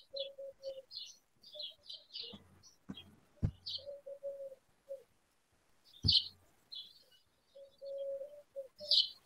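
Birds chirping in quick runs of short high notes, with a few lower held notes in between. There are sharp clicks or knocks about three, three and a half and six seconds in.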